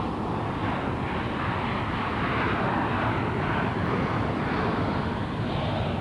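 Jet airliner engine noise, a steady, even sound that neither rises nor falls.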